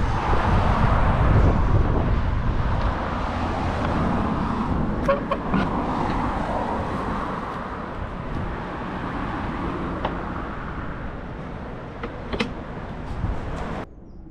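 Road traffic passing: a car's engine and tyre noise is loudest at the start, then fades away over the next several seconds. The sound cuts off abruptly near the end.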